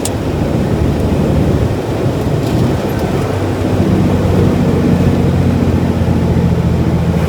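Diesel engine of a Freightliner FLD 112 semi truck heard from inside the cab as the truck slows down, a steady low drone with road noise that grows stronger about three and a half seconds in.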